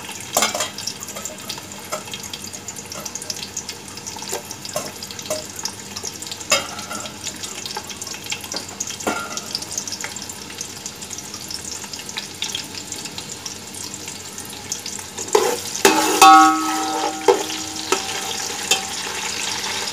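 Sliced onion frying in hot vegetable oil in a large metal pot: a steady sizzle with fine crackling. Near the end a metal spoon stirs, knocking against the pot with a brief ringing tone.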